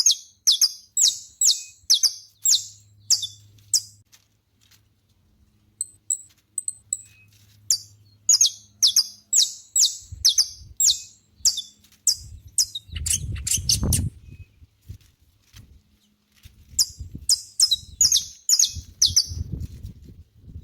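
Saffron finch singing: four phrases of rapid, sharp high chips with short pauses between them. A low rumble runs under the second half, loudest about two-thirds of the way in.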